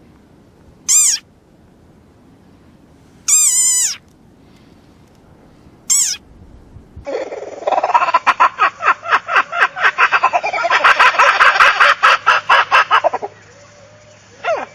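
Three short, high-pitched animal cries, the second a longer one with falling pitch. From about seven seconds in, a different animal gives a rapid run of pulsing calls, several a second, for about six seconds.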